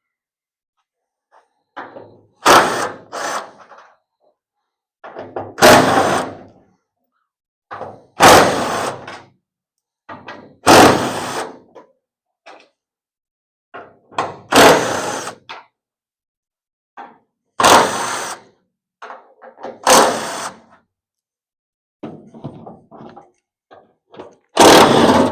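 A series of knocks and clunks, one every second or two, from hands and tools working on the bare metal body parts as the car is taken apart.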